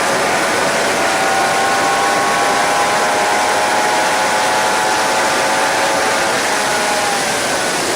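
Suzuki GSX-R 750 inline-four engine running hard at speed, its pitched note heard through heavy wind rush on the microphone; the note sags slightly near the end.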